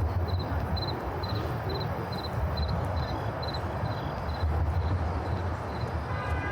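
Crickets chirping, short high chirps at about two a second, over a steady low rumble of city traffic.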